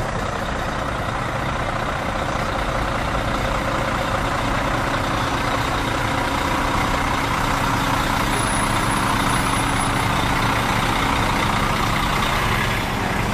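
Large truck's engine running steadily with a low hum, amid a continuous wash of street noise.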